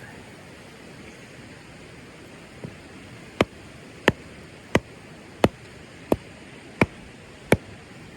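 A run of about seven sharp, evenly spaced knocks, roughly one and a half a second, starting a little over three seconds in, over a steady background hiss.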